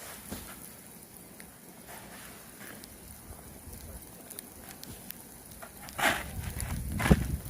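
Snow being cleared off a car: faint crackling and scraping, then about six seconds in a loud brushing swish, followed by a sharp thump.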